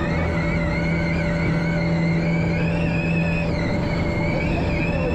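Audi RS Q e-tron Dakar rally car under way: the whine of its electric drive rising and falling in pitch with speed, over a steady drone from the range-extender petrol engine running at constant speed to charge the battery.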